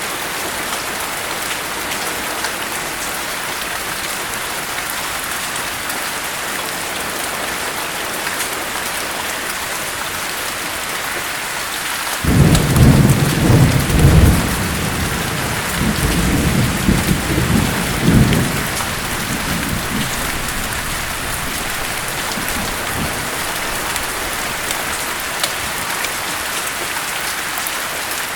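Steady rain hiss. About twelve seconds in, a low rumble of thunder breaks in suddenly and rolls in several surges for about six seconds, then dies back to rain alone.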